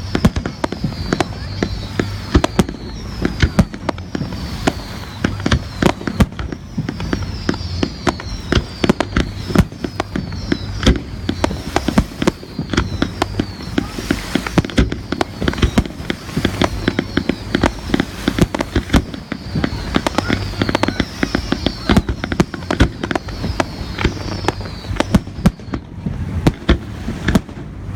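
Fireworks display going off in dense, rapid succession: a near-continuous barrage of bangs. Short falling high whistles are heard again and again among them.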